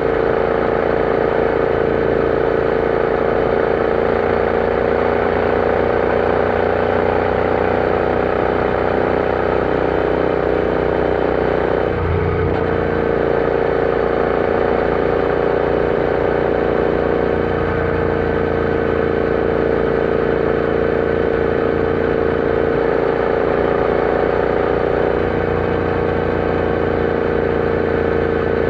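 Royal Enfield Interceptor 650's parallel-twin engine running at a steady speed, its pitch holding nearly level. About twelve seconds in there is a brief break in the sound.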